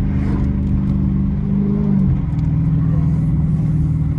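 Straight-piped Dodge Challenger R/T Hemi V8 exhaust droning steadily at low cruising speed, heard from inside the cabin; its pitch steps a little lower about two seconds in.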